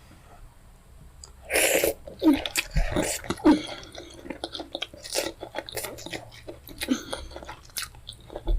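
Close-miked eating of fufu with pepper soup: a run of chewing and mouth smacks, with a short, loud noisy burst about one and a half seconds in.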